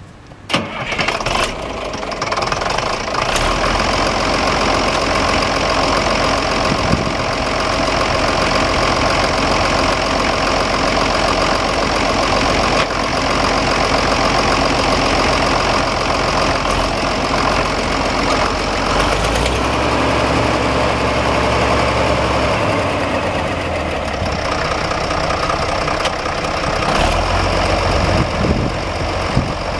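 1968 Case 930 tractor engine starting about half a second in, then running steadily, with shifts in its low note around two-thirds of the way through.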